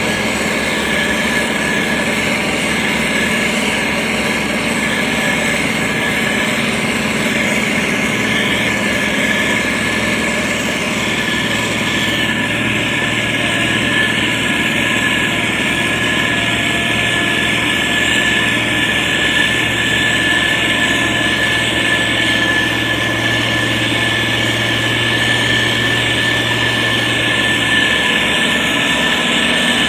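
Diesel engine of a SANY STG190C-8S motor grader running steadily while it works. The engine note shifts about twelve seconds in and holds until near the end.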